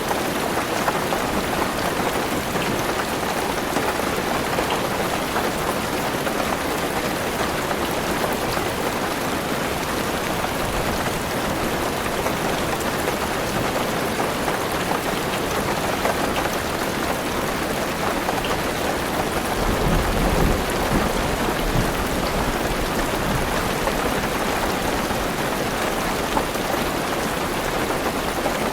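Heavy rain falling steadily on a car roof and windows, heard from inside the car. About two-thirds of the way through, a low rumble of thunder swells briefly beneath the rain.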